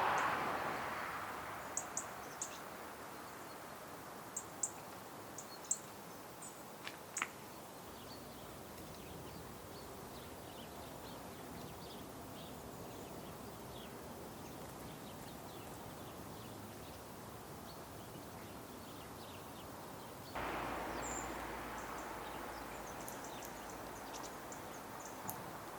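Scattered short, high bird chirps over a steady background hiss of outdoor noise; the background hiss steps up suddenly about 20 seconds in.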